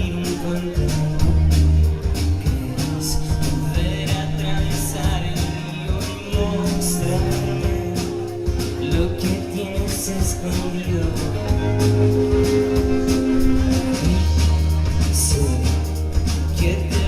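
Live band music: drums hitting steadily under held bass notes and sustained melody lines that change every second or two.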